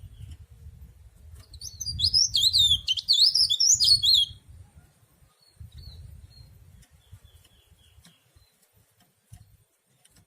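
Cikrak daun (leaf warbler) singing: one loud, rapid, high warbling phrase of quick up-and-down notes about two seconds in, lasting about two seconds, then a few faint thin notes later on. A low rumble runs under the first half.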